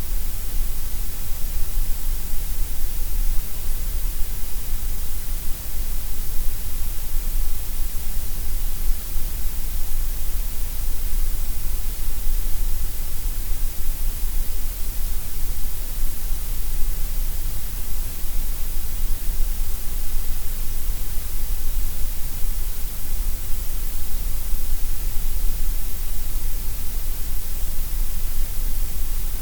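Gray noise: a steady, unchanging hiss, fuller in the deep bass and the high treble than in the middle.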